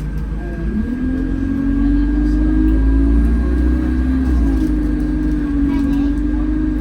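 Alexander Dennis Enviro200 bus engine and drivetrain heard from inside the bus while it is under way: a low rumble with a droning tone that rises in pitch about a second in as the bus picks up speed, then holds steady. A thin, steady high whine runs throughout.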